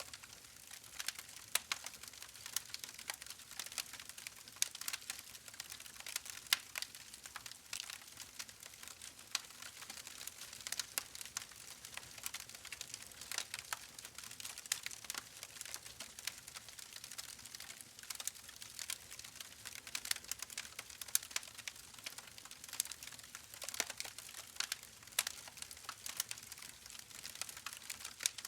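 Steady soft crackling: many irregular small clicks and crackles over a faint hiss, with no clear rhythm.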